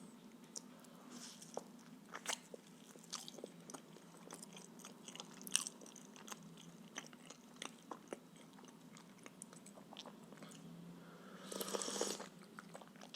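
Close-miked chewing and biting of stuffed blini, with scattered soft mouth clicks and a brief louder noisy sound near the end.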